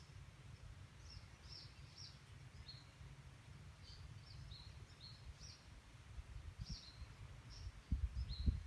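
Small tropical birds chirping: many short, high notes, a few each second, over a steady low rumble that gets louder, with a few thumps, near the end.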